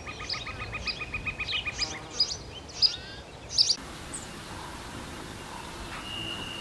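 Songbirds singing and chirping: one gives a fast run of repeated notes, about six a second, while others add short high chirps. About three and a half seconds in the sound changes abruptly to a steady outdoor hiss, with one long, even whistled note near the end.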